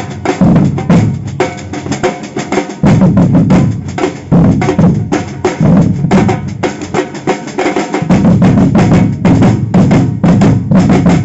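Samba percussion band playing a fast rhythm: deep bass drums pounding under rapid snare and small-drum strokes, loud and dense throughout.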